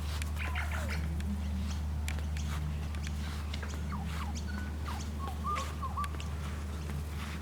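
Several wild birds calling at once: scattered short chirps and squawky notes, with a few brief whistled notes about two-thirds of the way in, over a steady low hum.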